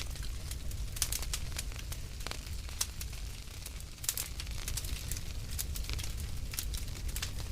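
Wood fire burning in a fireplace, crackling and popping at irregular intervals over a low steady rumble of the flames.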